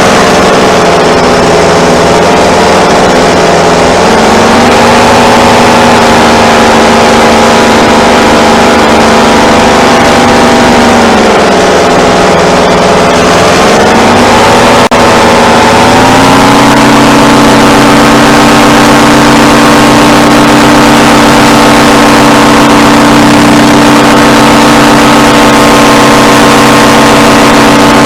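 Paramotor engine and propeller running in flight. The engine pitch rises about four seconds in, sags around the middle, then rises again and holds steady as the throttle is worked.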